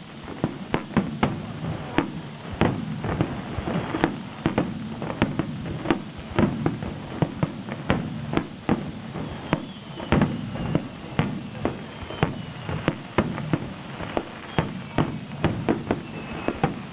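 Fireworks going off in quick succession, sharp bangs several times a second over a continuous rumble, with a few faint falling whistles partway through.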